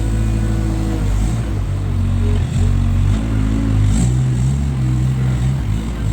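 Skid steer engine running steadily under work, its pitch shifting up and down a couple of times as the machine moves and works its clamp.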